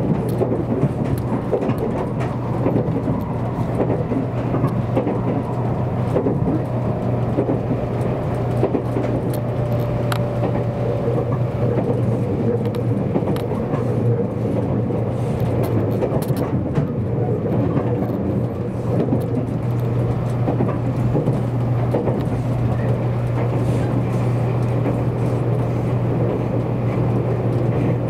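Interior running noise of a JR Kyushu 783 series electric limited express train under way: a steady low rumble and hum of wheels on rail, with a faint whine that sinks slightly in pitch about a third of the way through.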